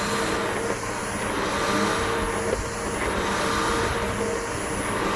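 Bissell BigGreen PowerForce upright vacuum cleaner motor running steadily with a high whine while being pushed over grass. Its sound swells and eases roughly every two seconds.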